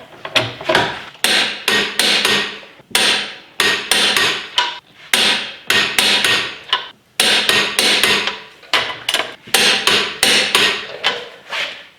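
Ratchet of a click-type torque wrench clicking in quick bursts of sharp metallic clicks as the wheel's lug fasteners are tightened down, with the wrench clicking out as each one reaches its set torque.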